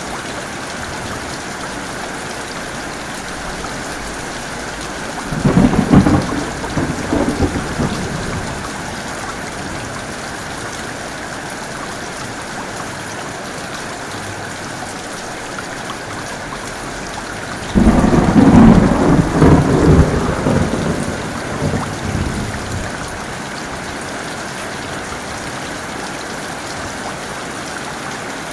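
Steady heavy rain with two claps of thunder. The first comes about five seconds in and the second, longer one about eighteen seconds in, each breaking suddenly and rumbling away over a few seconds.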